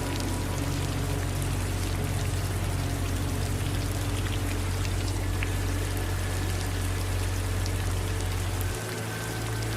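Steady rain with scattered individual drops ticking, over a low steady rumble that drops away abruptly near the end.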